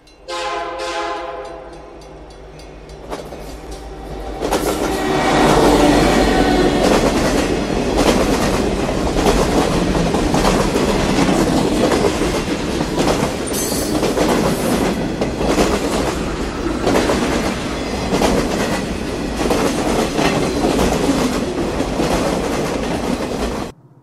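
A train horn sounds for about two seconds, then a train passes close by, rumbling loudly with wheels clattering over the rail joints. The sound cuts off abruptly near the end.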